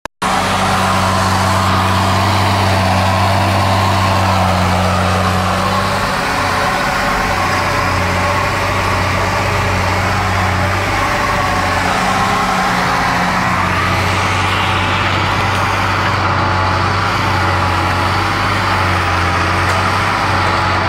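John Deere 7710 tractor's 8.1-litre diesel engine, chip-tuned to 200 hp, running steadily under heavy load while pulling a four-furrow plough at full depth through heavy soil. The engine note wavers briefly about six seconds in and again around eleven seconds.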